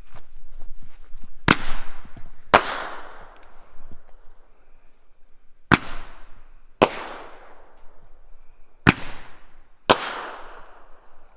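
Thunderstick 5-ball Roman candle firing three shots, each a sharp launch pop followed about a second later by the louder bang of the ball breaking in the air, with a fading echo.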